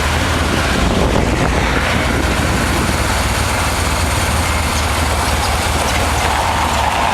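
1988 Honda Transalp's V-twin engine running steadily at cruising speed, with a constant rush of wind noise.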